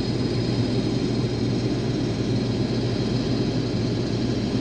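Case IH 2188 combine running steadily at harvest speed with its grain tank unloading into a grain cart: a constant deep machine hum and rumble.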